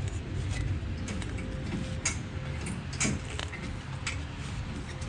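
A hand tool scraping and clicking against the metal of a motorcycle muffler as the exhaust baffle is pulled and yanked out: a few sharp clicks over a steady low hum.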